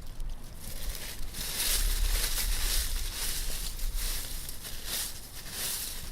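Dry fallen leaves rustling and crunching underfoot in a string of uneven steps, over a low rumble.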